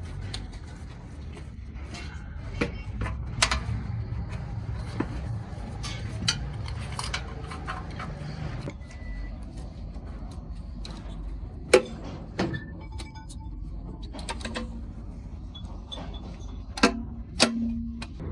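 Workshop engine work: scattered metal clinks and knocks of tools and engine parts over a steady low rumble, with one sharp knock about twelve seconds in and two more near the end.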